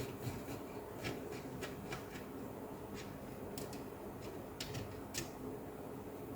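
Faint, scattered small clicks and ticks of a screwdriver working screws out of a laptop's motherboard, over a steady low hum.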